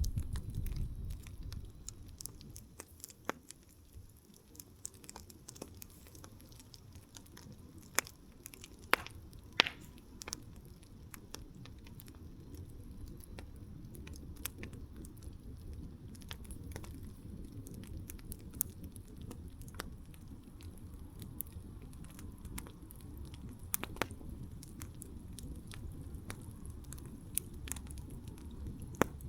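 Wood campfire crackling: scattered sharp pops and snaps over a low, steady rumble of the flames. A deeper rumble dies away in the first couple of seconds, and a few louder pops stand out about a third of the way in and again near the end.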